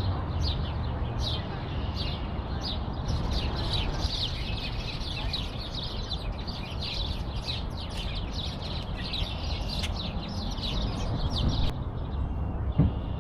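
Songbirds chirping: a dense run of quick, high chirps, many per second, which stops a little before the end, over a steady low outdoor rumble.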